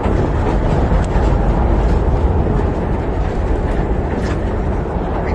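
Miniature tourist train running along its track, a steady rumble with a few sharp clicks.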